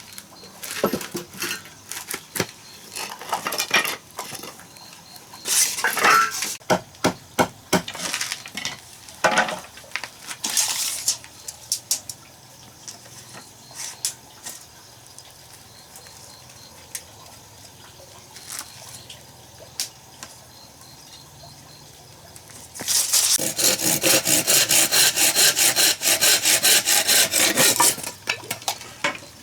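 Pots, pans and metal utensils clinking and knocking in irregular handling, then, about two-thirds of the way in, a fast, even series of strokes lasting about five seconds, as of rapid chopping or whisking.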